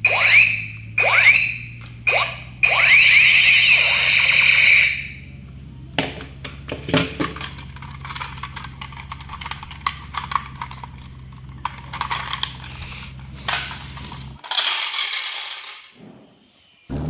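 Toy gun electronic sound effects: a string of high 'pew' tones that each fall in pitch, then a rapid burst of overlapping falling tones. Irregular clicking and rattling of plastic toys follows over a steady low hum, with a short burst of hiss near the end.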